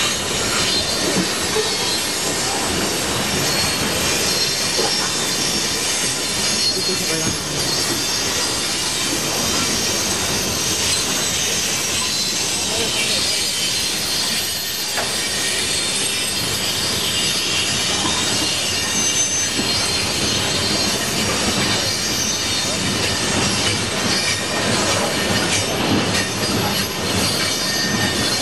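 Coal train cars rolling past steadily, steel wheels squealing on the rails in a high thin whine over the rumble and clatter of the train.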